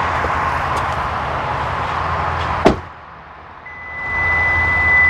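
Car door shutting with a single bang, then, about a second later, a steady high warning tone from the 2020 Hyundai Sonata Limited, the alert that the key has left the vehicle.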